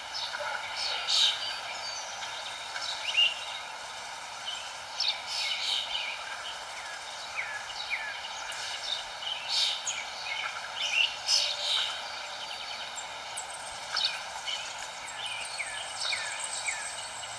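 Several birds chirping in short, quick calls scattered throughout, some louder and closer, over a steady background hiss.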